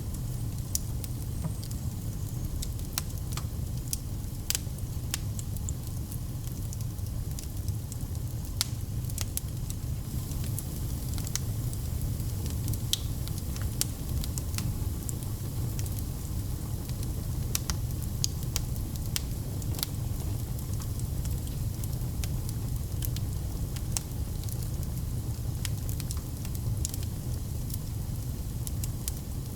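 Wood fire burning in a fireplace: scattered sharp crackles and pops over a steady low rumble of flames.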